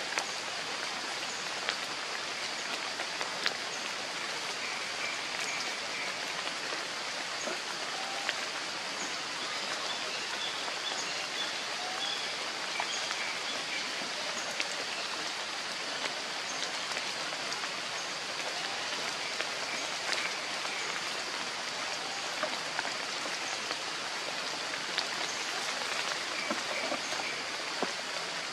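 Steady hiss of light rain falling in forest, with a few faint bird chirps and scattered small clicks.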